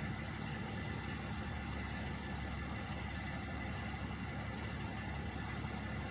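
Truck engines idling: a steady, unchanging low rumble.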